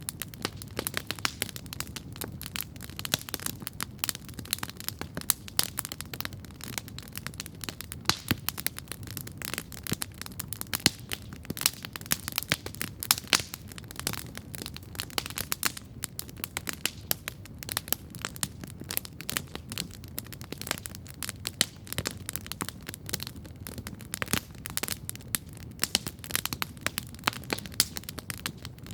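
Wood campfire crackling steadily, with many sharp, irregular pops over a low, steady roar of flame.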